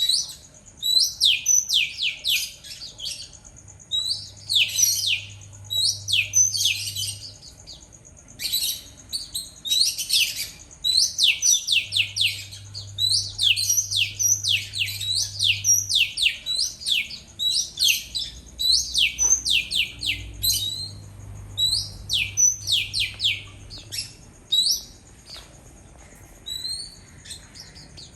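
Oriental magpie-robin (kacer) singing: bursts of quick, downward-sweeping whistled notes, phrase after phrase with short pauses between.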